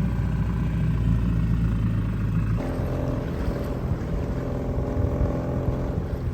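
Small outboard motor running on a sailboat, a steady low drone whose note changes about halfway through.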